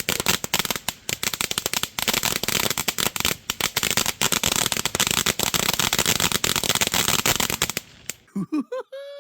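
Firework crackling: a dense, rapid run of sharp pops that stops abruptly about eight seconds in.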